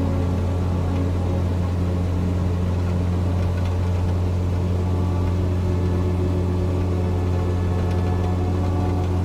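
Cessna 172's piston engine and propeller droning steadily in cruise flight, a constant low hum with no change in pitch.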